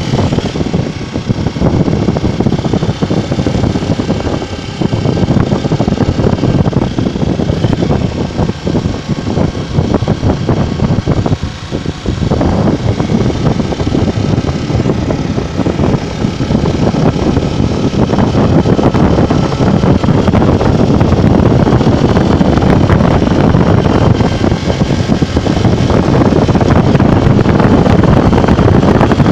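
Honda Bros 150 motorcycle running on the road, its engine noise mixed with heavy wind rushing over the microphone. The sound grows louder over the last third.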